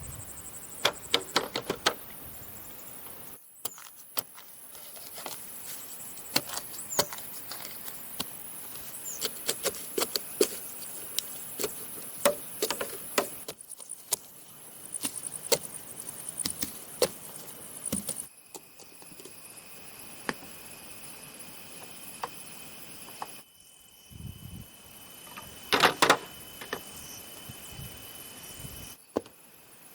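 Handwork on bamboo: a run of sharp knocks and clicks, with the loudest cluster near the end, over a steady high insect drone. The sound drops out briefly several times.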